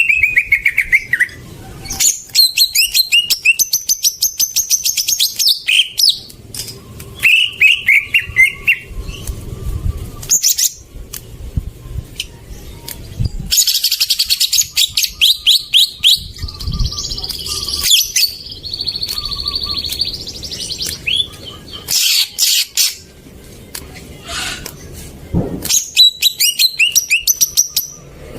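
Green leafbird (cucak ijo) song: phrases of fast chattering trills and short downslurred whistles, repeated with brief pauses between them.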